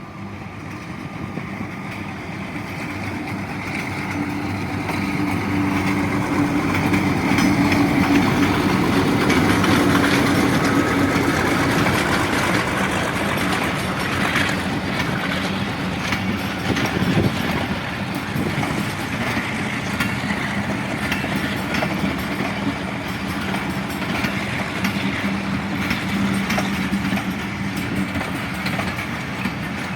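Passenger train arriving: a diesel locomotive's engine hum grows louder over the first eight seconds or so and then holds steady as the coaches roll past, with wheels clattering over the rail joints.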